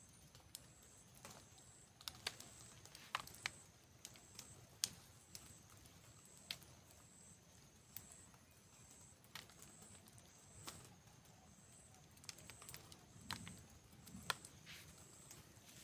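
Near silence with faint, scattered sharp clicks and taps, over a faint high-pitched tone that pulses on and off about twice a second.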